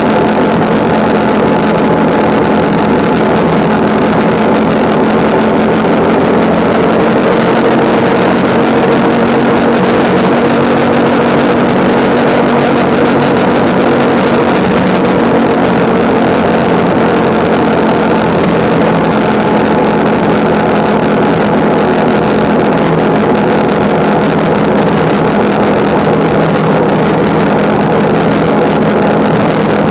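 Vehicle engine running at a steady cruising speed over a constant rush of road and wind noise, its pitch holding even.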